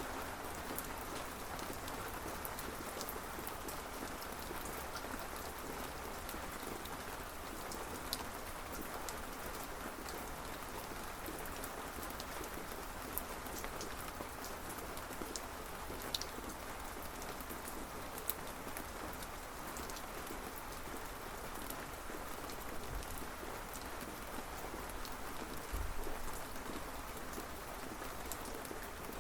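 Steady rain falling on a surface, with scattered sharp ticks of individual drops. A brief low thump comes near the end.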